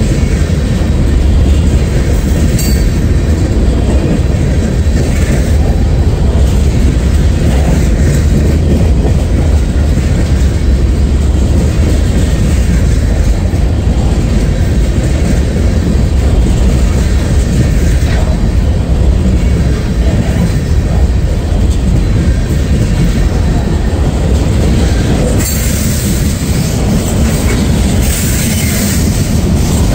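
Freight train passing close by: a steady, loud, heavy rumble of cars rolling over the rails. The high end turns brighter and hissier near the end.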